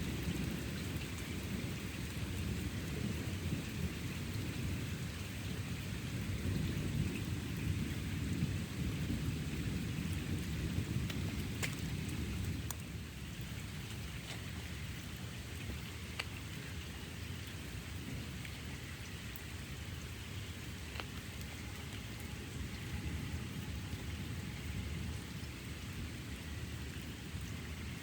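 Steady rain falling in a thunderstorm, with a low rumble of thunder that eases about halfway through; a few sharp drip ticks stand out over the rain.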